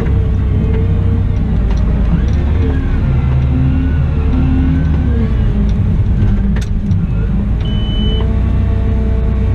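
Caterpillar 972M XE wheel loader's diesel engine running under work, its pitch rising and falling. A sharp click comes about six and a half seconds in, and a short high beep about a second later.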